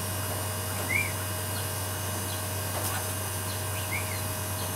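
Two short, arched bird chirps about three seconds apart, over a steady low hum.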